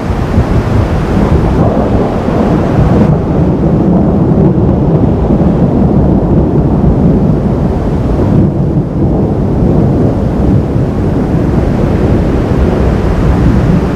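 Thunder rumbling continuously through a thunderstorm: a loud, low, rolling rumble that swells and eases without any sharp crack.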